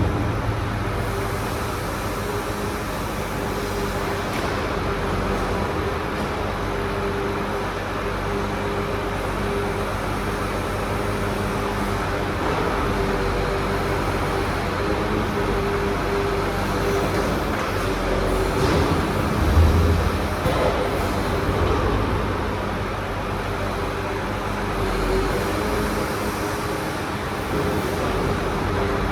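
Crane truck's engine running steadily while the grapple crane works, a constant droning hum with a brief louder swell about two-thirds of the way through.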